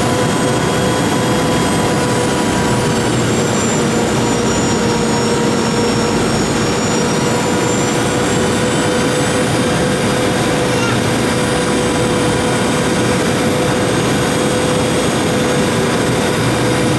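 Steady jet airliner noise of a Boeing 717 in flight: an even rush of air and engine noise from its Rolls-Royce BR715 turbofans, with a steady hum and a faint high whine.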